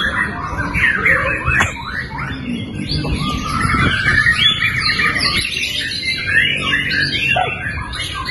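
White-rumped shamas (murai batu) singing in a dense stream of rapid whistles, trills and chirps, several songs overlapping, over a low background noise.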